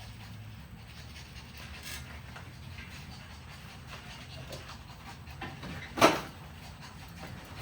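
A dog panting, with one loud sharp knock about six seconds in.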